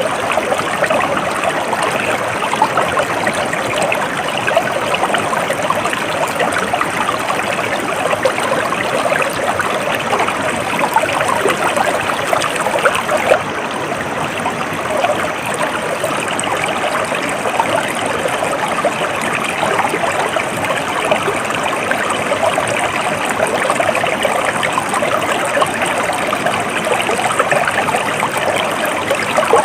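A stream of water flowing and trickling steadily, an even babbling rush with no breaks.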